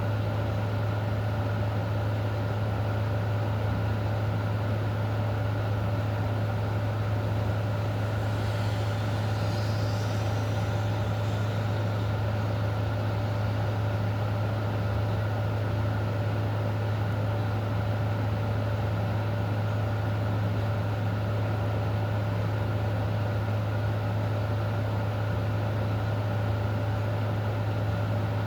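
Steady rain hiss under a constant low mechanical hum that never changes. About eight to twelve seconds in, a faint high warbling sound rises briefly above them.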